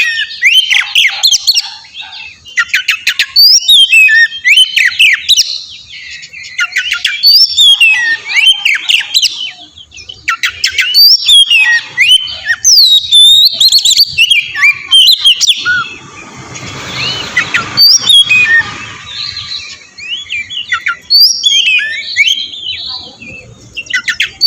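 Oriental magpie-robin (kacer) singing loudly in quick, varied phrases of sweeping whistles and rapid chattering notes with short pauses between them. About two-thirds of the way through, a harsh, noisy stretch lasting a few seconds sits under the song.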